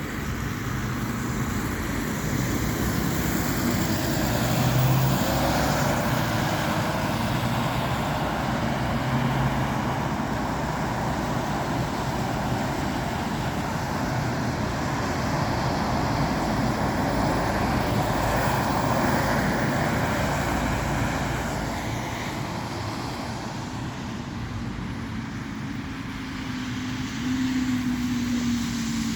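Steady road traffic passing, with the engine and tyre noise of cars, vans, lorries and double-decker buses. It swells and eases as vehicles go by, and an engine note rises near the end as one pulls away.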